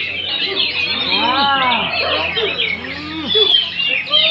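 Dense chorus of many caged songbirds singing and chattering at once, in rapid overlapping trills and chirps. A lower, drawn-out call rises and falls about a second in and again near three seconds.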